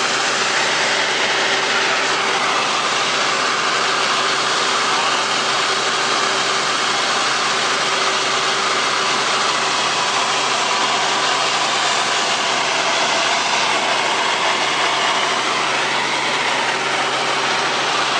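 Helicopter in flight heard from inside the cabin: engine and rotor noise run in a steady, loud drone with a constant hum underneath.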